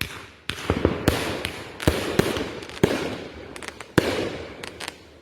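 A consumer aerial fireworks cake firing: a run of sharp bangs at uneven intervals, about seven louder reports and a few smaller ones, each trailing off.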